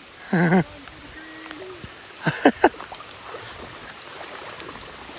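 Steady hiss of rain falling on a river, with a short voice-like sound about a third of a second in and a few sharp taps around two and a half seconds.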